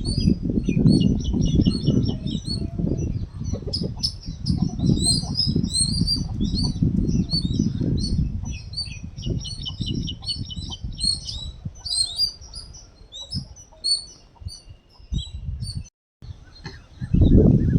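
Birds chirping: many short high chirps and quick trilled series, over a low rustling, buffeting noise that is loudest in the first half and fades after about nine seconds.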